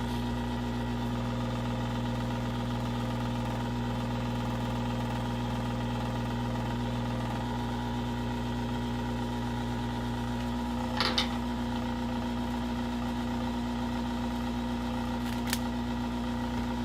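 Steady machine hum of a running motor or fan, holding one pitch, with its deepest part dropping out about ten and a half seconds in. A short scrape comes about eleven seconds in and a single sharp tick near the end.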